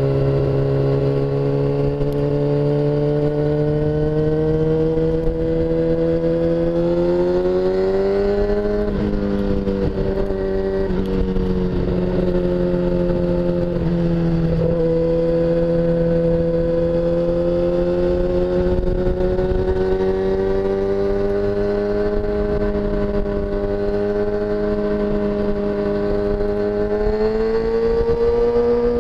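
Kawasaki ZX-6R motorcycle's inline-four engine running under way in a tunnel, heard from the rider's helmet with no wind noise. The engine note climbs slowly, drops and shifts twice in the first half as gears change, holds steady, then rises again near the end.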